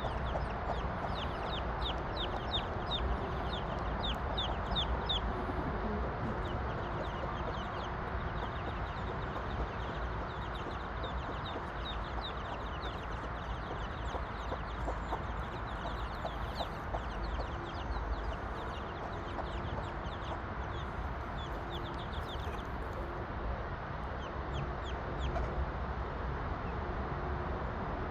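Backyard chickens clucking, with runs of quick high chirps, over a steady background hiss.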